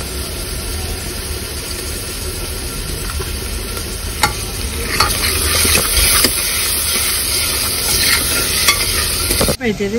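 Chopped tomato and onion sizzling in an aluminium pressure-cooker pot while a metal spoon stirs them, with a few sharp clinks of the spoon against the pot, over a steady low hum.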